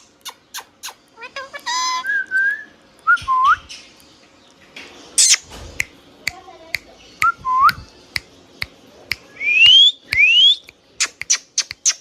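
A pet rose-ringed parakeet whistling: upward-gliding whistled notes, short hooked chirps and quick clicks, with one sharp squawk about five seconds in.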